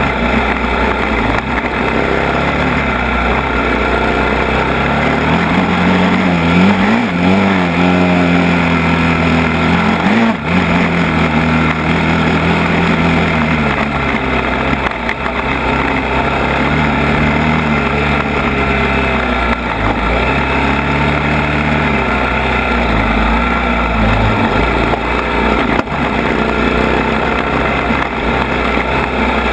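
ATV engine running under way, its pitch rising and falling as it is revved and eased off, with a couple of brief knocks.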